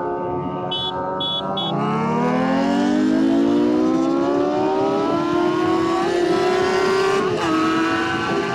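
Sport motorcycle's inline-four engine pulling hard in one gear, its pitch rising steadily for several seconds. Near the end a click and a slight dip come, and then the revs hold level instead of dropping for an upshift; the rider says the gearbox had stuck in third. Three short high beeps sound about a second in.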